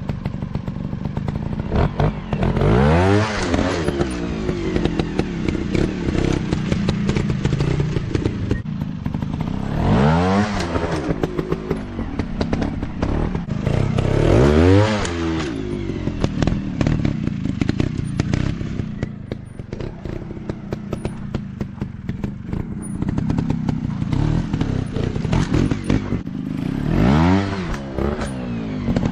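Dirt bike engines running steadily. Four times, a bike revs sharply, climbing steeply in pitch and quickly dropping back.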